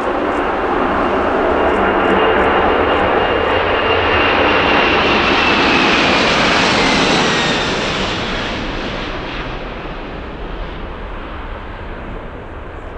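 Airliner engines passing close by, a loud roar with a high whine that slides down in pitch as the aircraft goes past, then fading away over the last few seconds.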